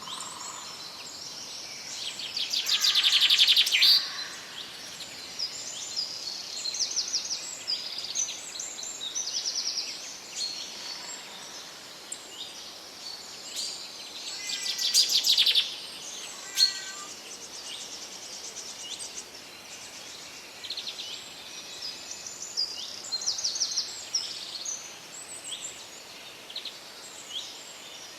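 Several songbirds singing and chirping over a steady background hiss, with many short high calls and trills. Two louder rapid trills stand out, one about three seconds in and one about halfway through.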